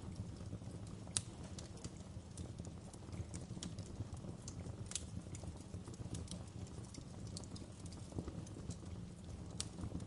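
Wood fire crackling in a fireplace: a steady low flame rumble with irregular sharp pops and snaps of burning logs, one louder pop about a second in.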